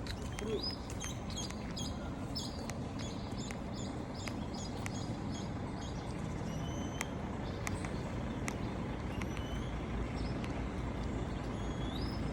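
Birds chirping and giving short rising whistles, many times over, against a steady low rumble like road traffic or an idling vehicle.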